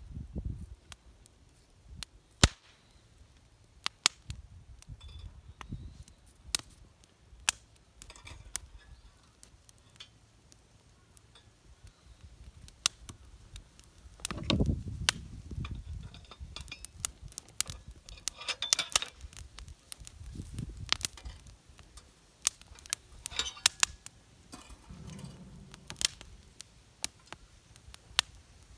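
Irregular sharp clicks, taps and clinks of metal parts and tools being handled, as pieces of a home-made take-apart fire pit are worked on and fitted. There is a dull handling rumble about halfway through.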